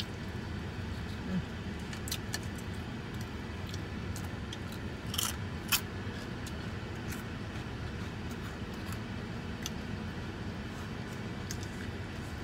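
Mouth-close chewing and crunching of a fried cheese rangoon, scattered crisp clicks, the loudest two about five to six seconds in, over a steady low hum inside a parked car.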